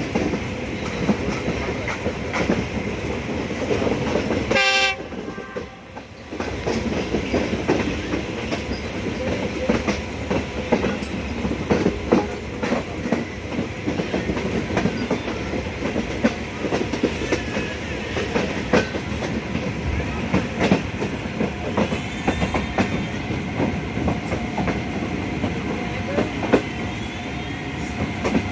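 Pakistan Railways passenger train running along the track, its wheels clicking and clattering over the rail joints, with a brief horn blast about five seconds in.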